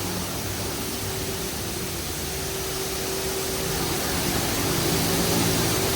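Laserwash G5 touchless car wash spraying high-pressure water through its turbo nozzle: a steady hiss of spray over a low, even pump hum, growing a little louder toward the end.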